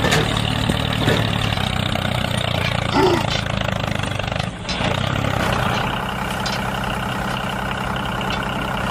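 Engine running steadily at an even, idle-like speed, with a low hum.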